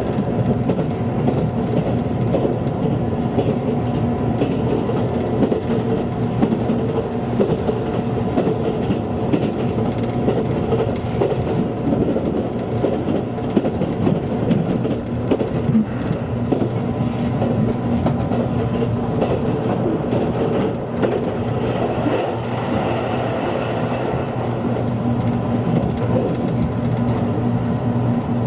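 A passenger train running at speed, heard from inside the car: a steady rumble of wheels on rail with a constant low hum.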